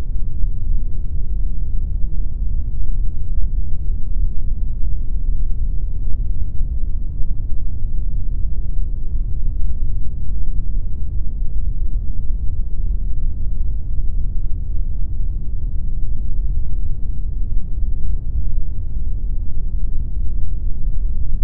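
Steady generated noise, sold as pink noise: a deep, even hiss with most of its weight low and little high treble, unchanging throughout.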